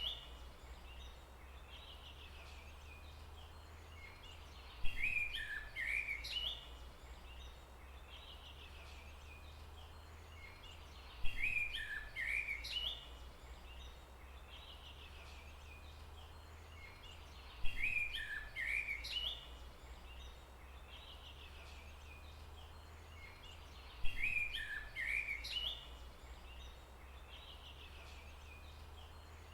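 A songbird singing the same short phrase four times, evenly about six seconds apart, each phrase about two seconds of quick chirps. A steady low hum runs underneath.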